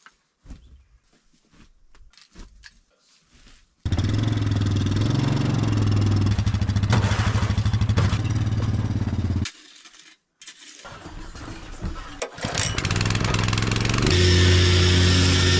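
A small engine running steadily, starting suddenly about four seconds in. It cuts off abruptly partway through, then comes back and runs steadily again near the end.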